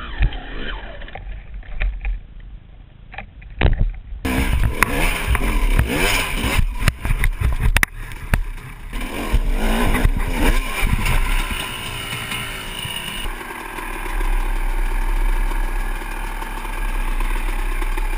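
Dirt bike engines revving and labouring, rising and falling in pitch, in short clips cut one after another, with scattered sharp knocks.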